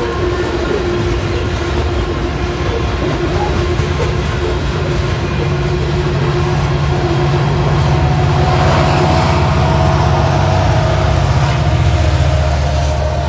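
Freight train's hopper cars rolling past with wheels clattering on the rails. From about eight seconds in, the low drone of the rear distributed-power diesel locomotive, an EMD SD70MAC, grows louder as it draws up.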